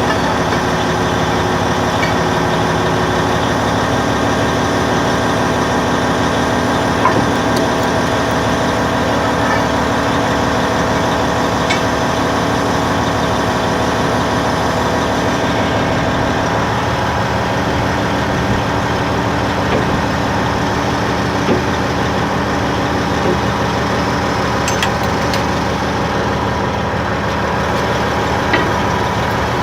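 Caterpillar D10N bulldozer's diesel engine running steadily, its note shifting a little about halfway through, with a few faint knocks.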